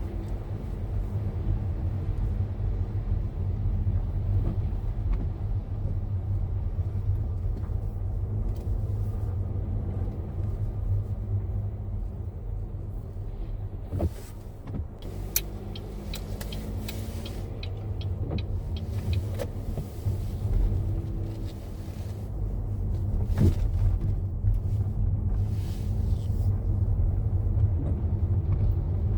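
Car cabin noise while driving: a steady low rumble of engine and road, with a few short sharp clicks around the middle.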